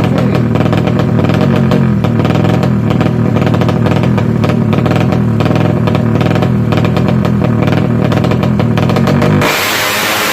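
Tuned Yamaha Jupiter MX drag bike's single-cylinder four-stroke engine running loud at high revs. About nine seconds in the sound changes abruptly to a harsher, hissier engine note.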